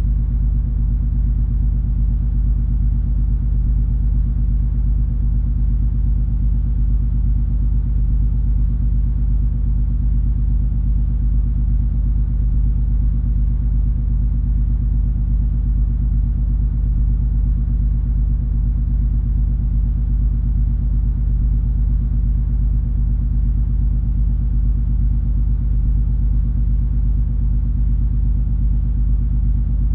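Steady low drone of the cruise ferry MS Color Magic under way: a deep, even rumble with a few steady low tones running through it, unchanging throughout.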